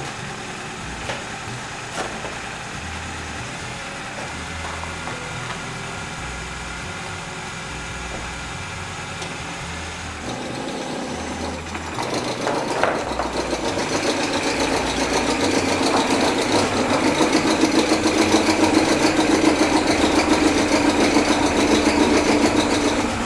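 Nissan Sentra's 2.0 L four-cylinder engine idling rough, skipping with an uneven beat: a misfire that the owner takes for a bad ignition coil. It grows louder about halfway through and cuts off suddenly at the end.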